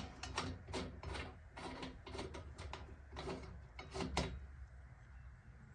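Metal clicks and rattles of a power saw's blade nut and arbor being worked by hand, irregular for about four seconds and then stopping. The nut's threads are stripped, so it won't hold the blade tight.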